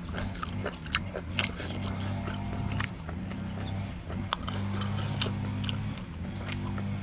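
Close-up chewing of a mouthful of food: many small wet mouth clicks and smacks scattered throughout, over a steady low hum.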